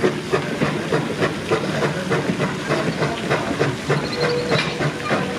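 Torch Lake, an 1873 Mason Machine Works articulated steam locomotive, running with a quick, even beat of steam exhaust chuffs, about four or five a second, over steady hiss. About four seconds in a thin steady tone sets in and holds.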